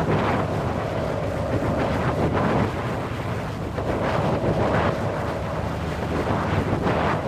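Strong wind blowing in gusts over a low rumble, with a faint whistling tone that fades in and out.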